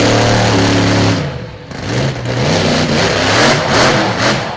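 Monster truck's supercharged big-block V8 held at high revs, dropping off about a second in, then revved up and down in quick repeated blips.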